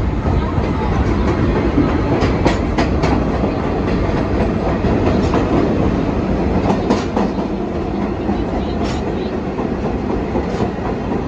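Subway train running at speed, heard from inside the car: a steady rumble of wheels and motors, with sharp clicks now and then as the wheels pass over rail joints.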